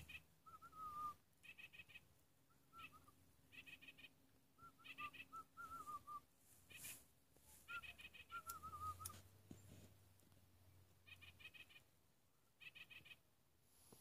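Bird calling repeatedly. Quick bursts of about four sharp, high notes alternate with runs of lower whistled notes that slur downward, a call group every second or so, with a pause of a couple of seconds past the middle.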